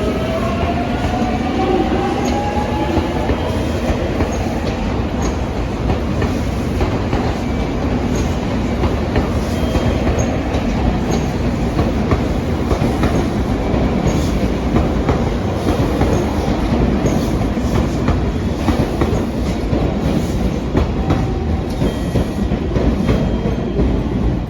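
A train running by, its wheels clattering over rail joints with a steady rumble. A rising whine is heard in the first few seconds.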